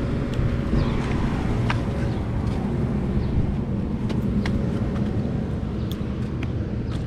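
Outdoor air-conditioning condensing unit running, a steady low hum from its compressor and fan, with scattered short high chirps over it.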